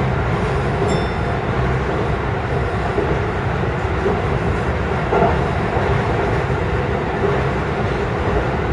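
JR Jōban Line local electric train running along the track, heard from the driver's cab: a steady rumble of wheels on rail.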